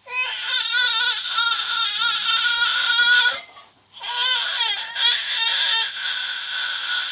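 Kitten crying loudly in long, wavering, drawn-out cries, broken by a short pause about three and a half seconds in.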